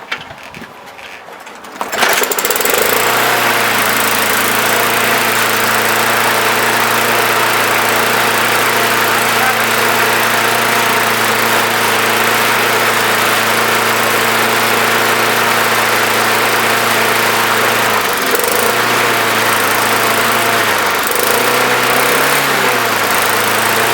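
Small Briggs & Stratton 5.5 hp lawn mower engine starting about two seconds in and running at a steady speed, with its speed dipping and recovering a few times near the end. The owner traces the earlier trouble to a governor spring stuck open, now freed.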